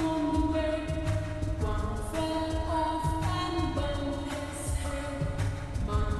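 Music: a sung children's nursery-rhyme melody over a backing track, with audio effects applied to the song.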